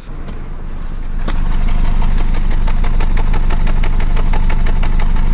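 2022 Nissan Rogue's engine starting and settling into a steady idle with a regular pulsing beat, with a sharp click about a second in. The engine has a cylinder 3 misfire.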